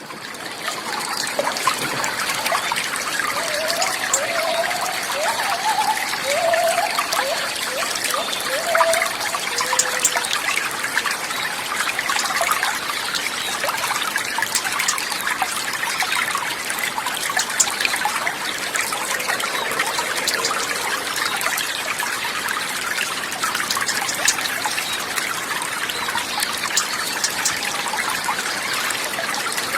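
Water trickling and babbling steadily, fading in at the start, with a few short chirps in the first ten seconds.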